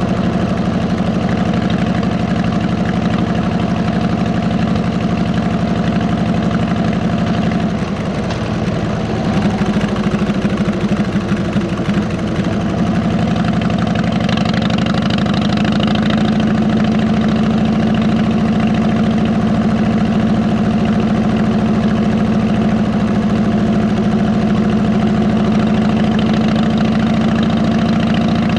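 Harley-Davidson V-twin engine running through 33-inch fishtail exhausts, mostly steady at a low, idle-like pace. It drops briefly and runs unevenly for a few seconds about a third of the way through.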